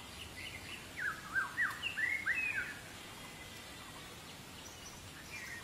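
A wild songbird singing: a quick phrase of clear whistled notes that slide up and down, starting about a second in and lasting about a second and a half, with fainter chirps before and after over a low hiss of forest ambience.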